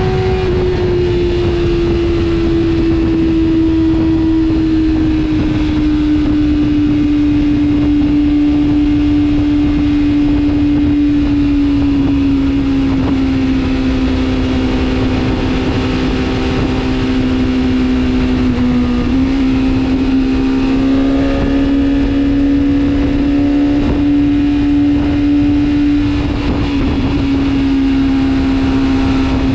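A vehicle engine holding steady high revs at speed, its pitch sinking slowly as it eases off, with a slight shift about two-thirds of the way through. Wind and road rush run underneath.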